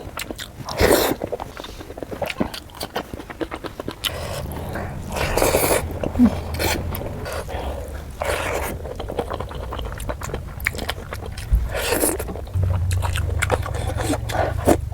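Close-miked eating sounds: a person chewing and biting food, with scraping and scattered wet clicks.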